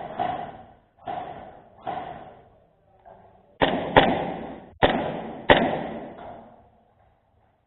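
A series of single airsoft gun shots, about eight, each a sharp pop that dies away quickly. The last four, about halfway through, are louder.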